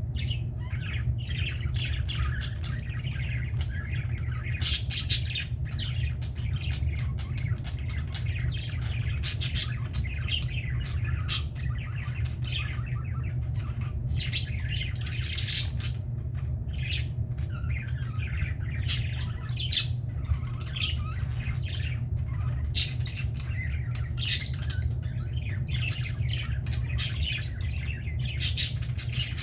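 Several budgerigars chattering and squawking: a steady run of short, sharp, high-pitched calls, with a steady low hum underneath.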